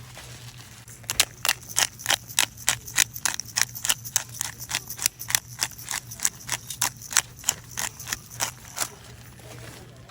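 A quick, even series of sharp knocks, about three or four a second, starting about a second in and stopping near the end, over a steady low hum.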